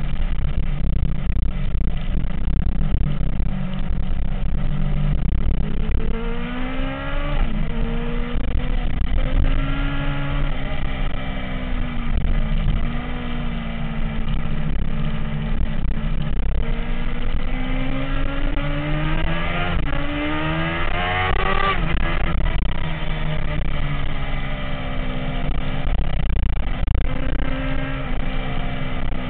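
MV Agusta F4's inline-four engine running with a steady low rumble, its revs rising and falling several times. The longest climb lasts about five seconds, past the middle, before dropping back.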